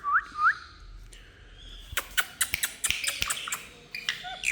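Ringneck parakeets making three quick rising chirps, followed by a run of sharp clicks and taps with short high squeaks.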